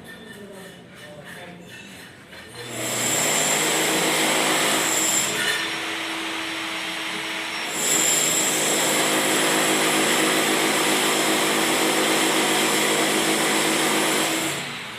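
A handheld power tool running at full speed in two long stretches: it starts about two and a half seconds in, eases off briefly after about three seconds, comes back strongly, and stops near the end.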